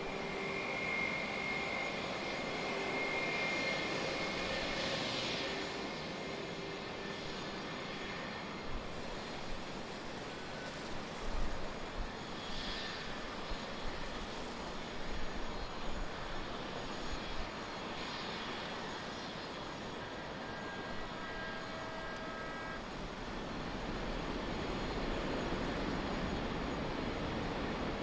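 Jet airliner engines running steadily at a distance, with a faint whine that fades after about eight seconds.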